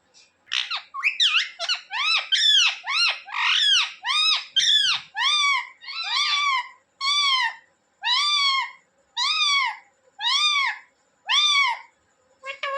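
Indian ringneck parakeet calling: a quick string of arching, rise-and-fall calls, then evenly repeated single calls about one a second.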